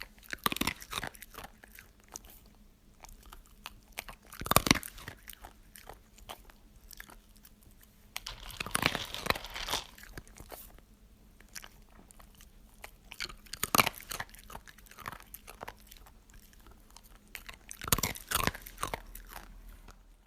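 Crunchy food being bitten and chewed: a loud crunching bite every four to five seconds, with quieter crackling chewing in between.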